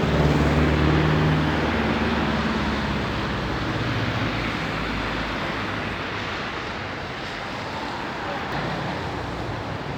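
A motor vehicle's engine running close by, loudest at the start and fading over the first couple of seconds, over a steady wash of road traffic noise.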